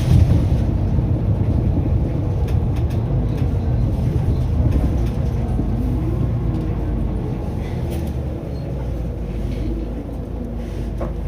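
Mitsubishi Fuso Aero Star city bus (LKG-MP37FKF) running fast, its turbo diesel engine and drivetrain heard from inside the cabin. The noise eases off gradually over the last few seconds.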